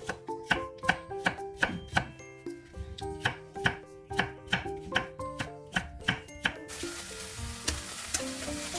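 Knife chopping on a cutting board, evenly at about two to three strokes a second. Near the end the chopping stops and the hiss of food sizzling in a frying pan takes over.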